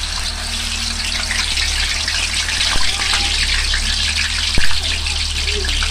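Tofu cubes sizzling and crackling in hot oil in a wok, the sizzle building after the cubes go in. Two sharp knocks cut through it, the louder one near the end.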